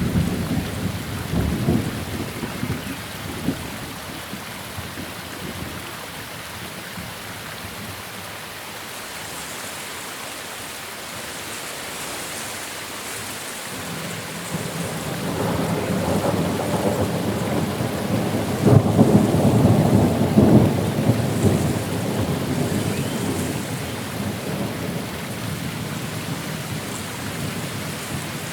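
Steady rain with thunder rolling: a rumble dies away in the first few seconds, then a second roll builds past the middle, peaks about two-thirds of the way through and fades out.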